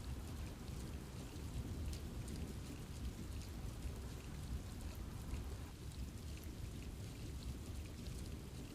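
Steady rain falling in a forest, a constant wash with many scattered drop ticks.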